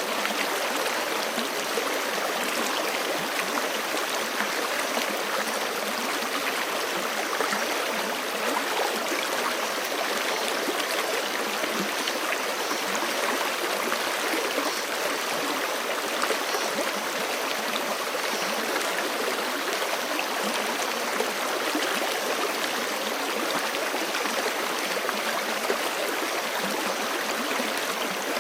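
Forest creek running steadily over rocks: an even rush of flowing water that does not let up.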